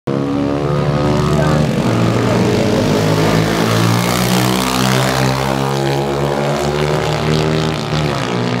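Pit bike engines running, with the pitch shifting up and down as the throttle changes.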